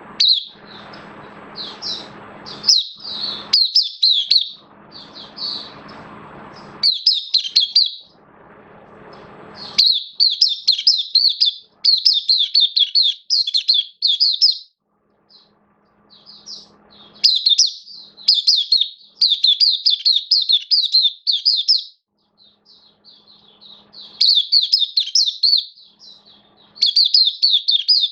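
Oriental white-eye (mata puteh) singing in fast, high twittering runs, phrase after phrase with short pauses. A steady hum sits under the song for about the first ten seconds, then drops away and returns only faintly.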